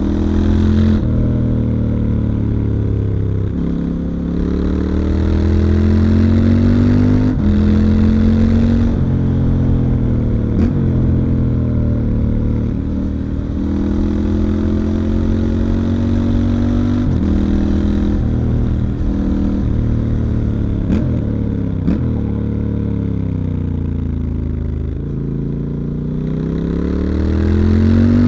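A 2019 Triumph Scrambler 1200 XE's parallel-twin engine through its stock exhaust, ridden under way. The pitch climbs and drops sharply again several times as it pulls through the gears, falls away steadily as the bike slows in the second half, and climbs again near the end.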